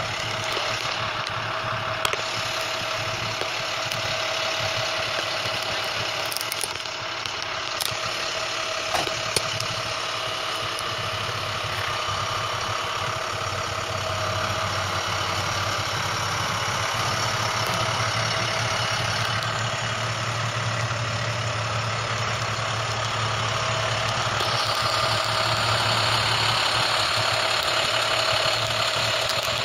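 A motor running steadily at idle, with a few sharp clicks about 2, 7 and 9 seconds in, and a slight rise in level in the second half.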